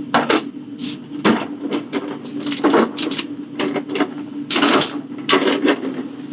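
Household items being handled and set down: a series of irregular clicks, knocks and rustles of plastic and cardboard, over a steady low hum.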